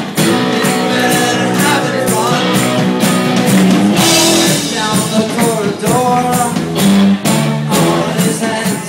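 Live rock band playing, with steady drumbeats and sustained pitched lines over guitar and bass, and some singing.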